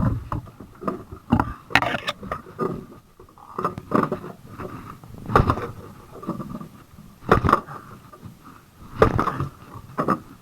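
Irregular knocks and scrapes on a small fishing boat, about one every one to two seconds, over a faint steady hum.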